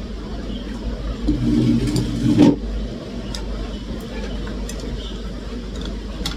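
Steady low rumble, with a brief stretch of a voice about a second in and a few sharp clicks later on.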